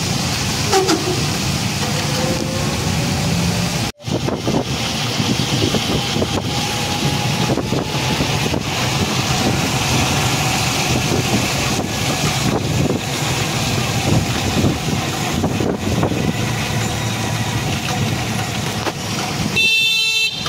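Steady engine and road noise of a motor vehicle on the move. The sound drops out briefly about four seconds in, and a short, harsh pitched burst comes near the end.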